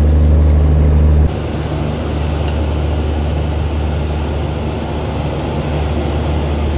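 Railway locomotive and train noise: a steady, loud low hum that cuts off abruptly about a second in, giving way to an even rumble of train noise.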